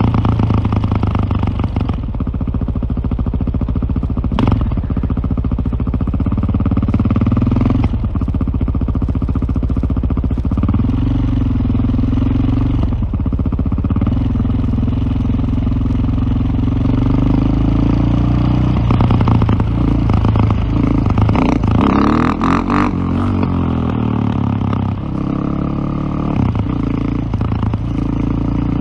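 KTM LC4 620 single-cylinder four-stroke motorcycle engine running under way, its revs rising and falling repeatedly.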